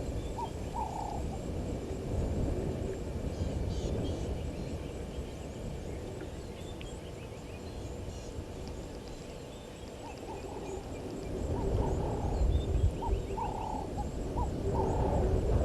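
Wild birds calling at a waterhole: short repeated calls near the start and again from about twelve seconds in, over a low rumble.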